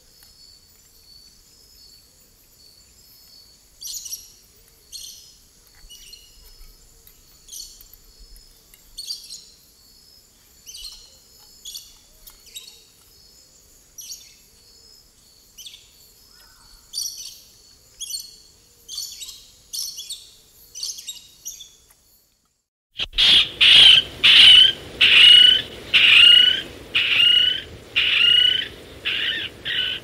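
Bird recordings: first a faint series of short, high chirps about once a second from an unidentified bird, then, about 23 seconds in, a much louder series of repeated calls about once a second from a Guam kingfisher.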